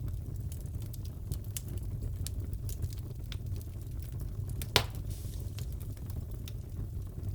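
Crackling wood fire in a fireplace: irregular small pops and snaps over a low, steady rush of flame, with one louder crack about two-thirds of the way through.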